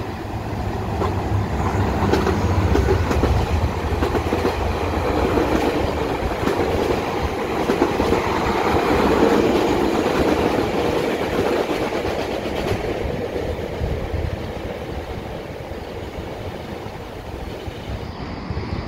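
EXO commuter train passing below: a low locomotive engine drone is strongest in the first half. Then the bi-level coaches roll by with a rumbling, clattering wheel noise that peaks about nine seconds in and slowly fades as the train moves away.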